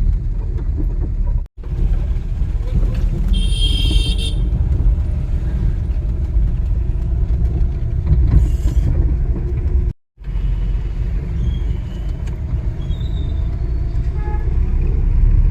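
Car on the road, a steady low rumble of engine and road noise, with a short high-pitched toot about three and a half seconds in. The sound drops out briefly twice.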